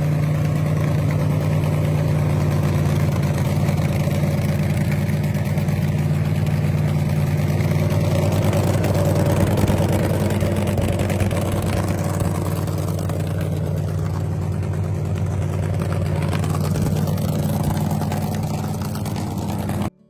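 A car engine idling steadily, with a strong low, even hum that cuts off suddenly near the end.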